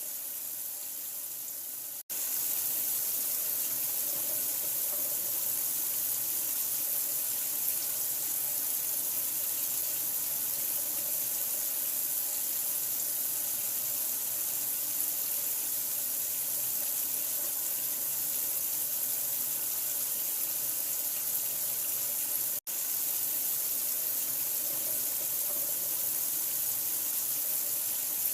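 Steady running water, an even hiss played as a sleep sound for a newborn. It cuts out for a split second twice, about two seconds in and again about twenty-three seconds in, and is slightly louder after the first cut.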